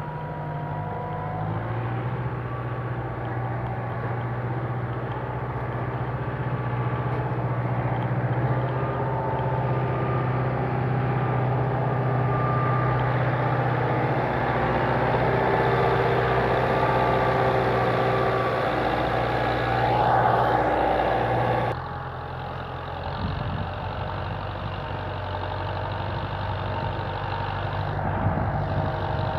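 Kubota M9540 tractor's diesel engine running steadily, growing louder over about twenty seconds, then dropping off abruptly about three-quarters of the way through.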